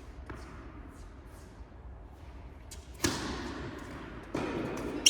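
Tennis ball struck hard by a racket about three seconds in, a sharp crack that rings on in the indoor hall, after a few faint thuds of ball bounces or footsteps; the court noise picks up again near the end.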